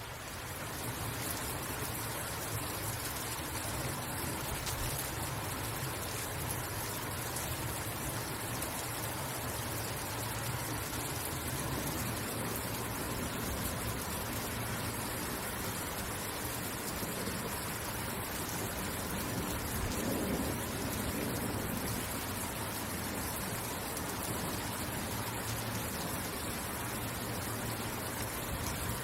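Steady rain falling, an even hiss with no breaks, over a steady low hum; the low sound swells briefly about two-thirds of the way through.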